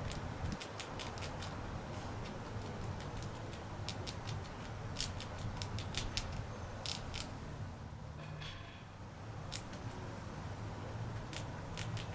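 Grey squirrel gnawing a nut: irregular sharp crunching clicks over a steady low background rumble.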